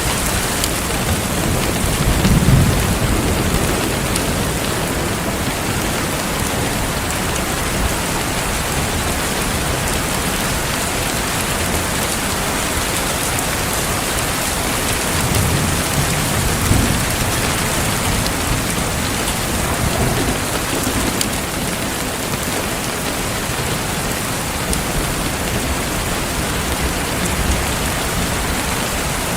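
Heavy rain falling steadily in a dense, even hiss, with low rumbles rising under it about two seconds in and again past the middle.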